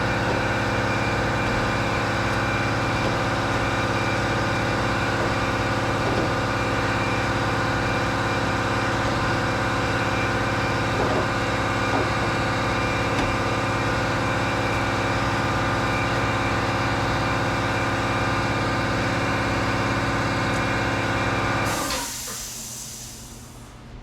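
Shop air compressor running with a steady, even hum, shutting off about two seconds before the end and winding down.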